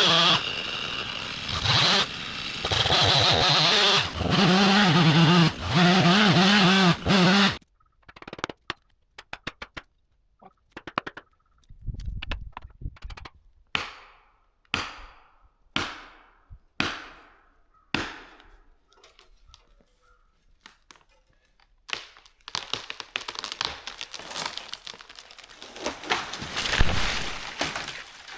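Chainsaw cutting into a standing tree for about seven seconds, then shutting off. A run of sharp cracks follows as the hinge wood breaks and the tree starts to go over. Near the end comes a rush of breaking branches with a heavy thud as it comes down.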